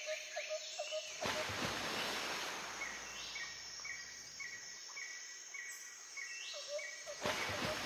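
Outdoor ambience: a steady rush of noise with rhythmic chirping calls. A low chirp repeats about four times a second at the start and near the end, and a higher chirp repeats about twice a second in the middle.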